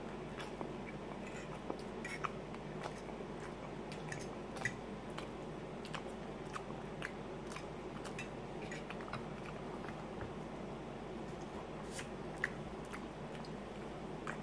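A person chewing and eating a breakfast of shredded hash browns and omelet with a fork from a plate, close to the microphone. Soft chewing comes with scattered short clicks and taps, over a steady background hum.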